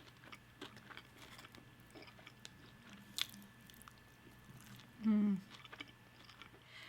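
Close-up chewing and biting of food, with small wet mouth clicks and light crunches. A short hummed "mm" about five seconds in.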